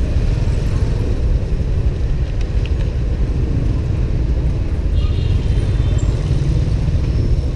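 Riding a motorbike through city traffic: a steady low rumble of engine, road and traffic noise, with a faint high tone about five seconds in.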